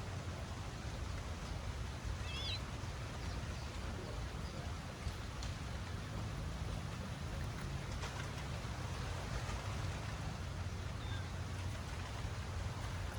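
Steady low rumble and hiss of outdoor background noise, with one short warbling bird chirp about two seconds in and a few faint ticks.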